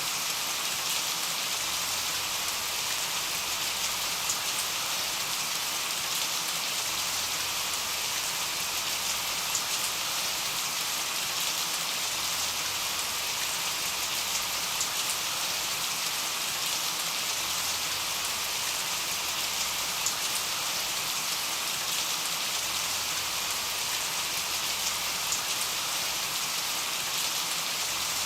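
Steady rain: an even, unbroken hiss of falling rain with faint, sharper ticks of single drops scattered through it.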